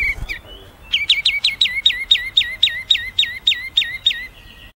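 A songbird repeats the same sharp, down-slurred whistled note about a dozen times, some three to four notes a second, after a few brief chirps at the start. The sound cuts off abruptly just before the end.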